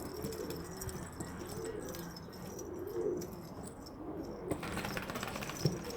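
Domestic pigeons cooing, several birds' soft rising-and-falling coos overlapping one after another, with a short knock near the end.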